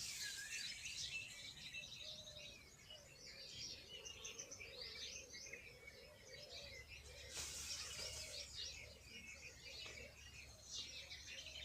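A chorus of small birds chirping and twittering continuously, with a lower warbling call running beneath it. A brief rustling rush comes about seven seconds in.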